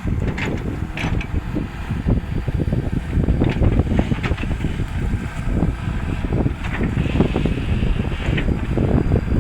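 Volvo excavator's engine running steadily with scattered knocks, and wind buffeting the microphone.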